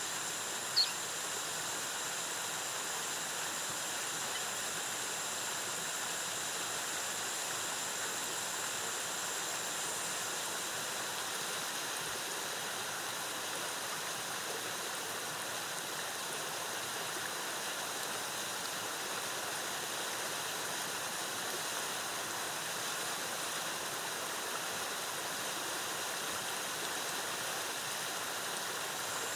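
Waterfall's cascading water making a steady, even rush. A short high chirp sounds about a second in, and a faint steady high tone sits over the water for the first ten seconds or so.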